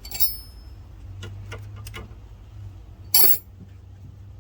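Metal tools clinking while working on the brake system: a ringing clink just after the start, a few light ticks, and a louder ringing clink about three seconds in, over a low steady hum.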